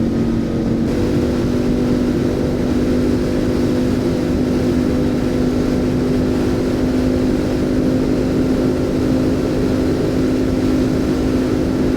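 Motorcycle engine running at a steady cruising speed, an even drone with the low rumble of wind and road beneath it.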